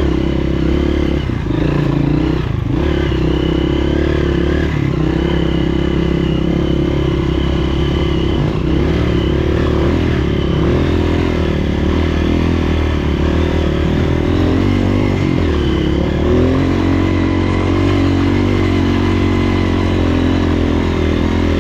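Honda CRF230F's air-cooled single-cylinder four-stroke engine running steadily while the bike is ridden. The engine note shifts about sixteen seconds in as the throttle changes.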